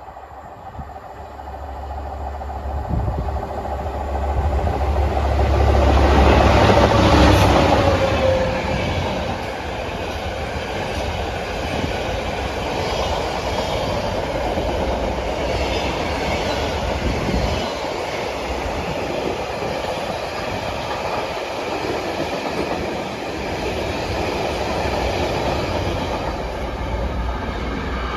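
A diesel freight locomotive passes close by. Its low engine note builds to a peak about seven seconds in and then fades, and a long rake of freight wagons rolls past with steady rail noise.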